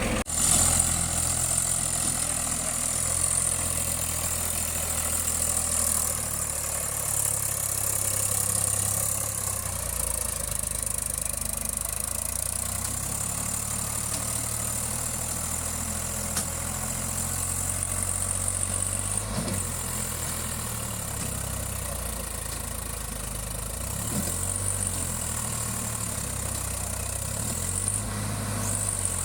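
Tractor diesel engine running steadily at low revs, its low drone holding an even pitch with only small shifts.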